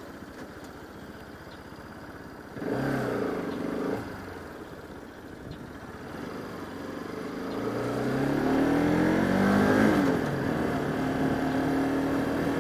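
Bajaj Pulsar RS200 single-cylinder motorcycle engine heard from a helmet camera. It revs up briefly about three seconds in. From about seven seconds it accelerates, its pitch climbing to a peak near ten seconds, then it holds a steady cruise.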